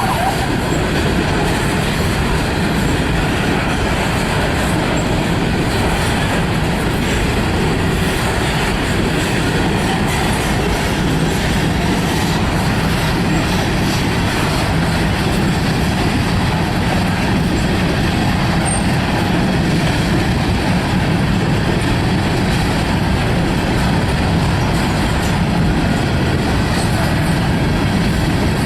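A freight train's cars rolling past close by: a loud, steady rumble and rattle of steel wheels on the rails that holds at the same level throughout.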